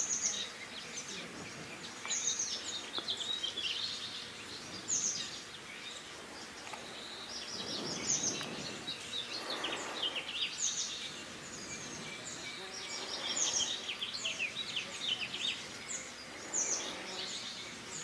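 Small songbirds singing and chirping: many quick, high calls and short falling notes, overlapping and repeating. A soft rush of background noise swells and fades about halfway through.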